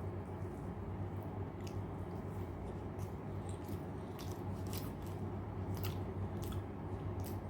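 A person chewing a mouthful of rice, dal and fried vegetables, with scattered wet mouth clicks and smacks, over a steady low hum.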